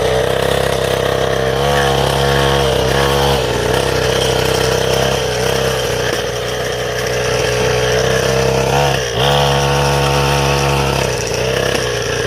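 Small motocross bike engine running steadily with several short throttle blips, its pitch swooping up and back down about two and three seconds in and again near nine and twelve seconds.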